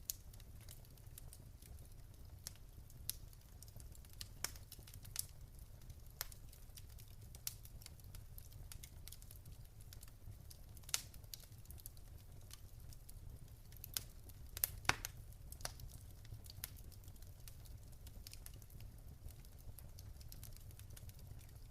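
Wood fire crackling in a fireplace: irregular sharp snaps and pops over a steady low rumble, with a few louder pops about halfway and a cluster about two-thirds of the way through.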